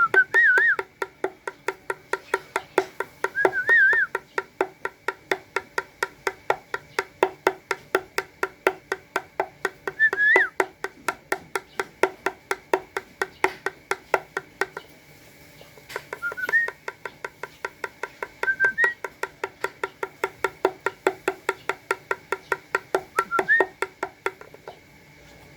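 Spotted dove pecking at its feed: a fast, even run of sharp clicks, about four or five a second, that stops briefly about halfway through, with a few short high squeaks in between.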